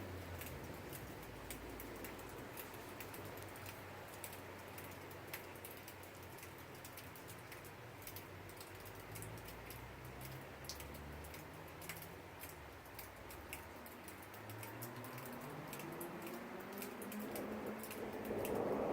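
Rain falling during a thunderstorm, heard as irregular drips and pattering clicks over a low rumble. The rumble grows louder near the end.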